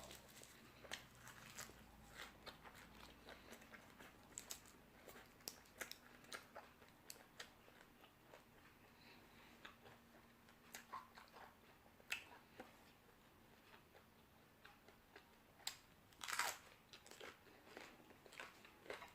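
Faint close-up chewing and crunching of crisp raw vegetables, in scattered bites with a slightly louder crunch about two-thirds of the way through.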